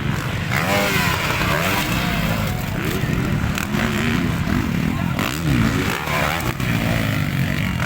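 Motocross bikes racing, several engines overlapping, their pitch rising and falling as the riders work the throttle.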